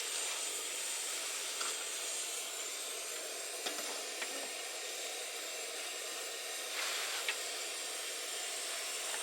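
Steady hiss of a pot of broth heating for a hot pot, with a couple of faint ticks near the middle.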